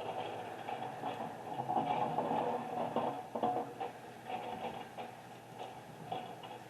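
Irregular tapping of computer keys, a run of quick light clicks.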